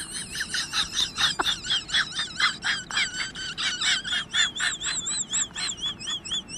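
Bird chirping in rapid high warbling notes, about four or five a second, that turn into a smoother wavering trill near the end.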